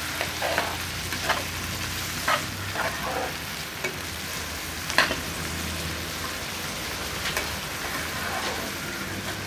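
Chopped onion and green garlic sizzling steadily in hot ghee in a metal frying pan, with a metal spatula scraping and clinking against the pan every second or two as it is stirred.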